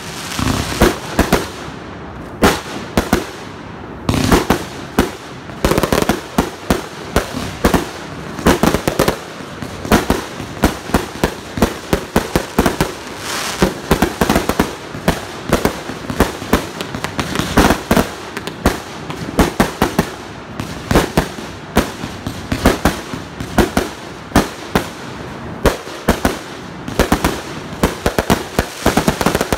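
Consumer fireworks going off in a dense, continuous barrage: sharp bangs several a second, uneven in loudness, with crackling between them.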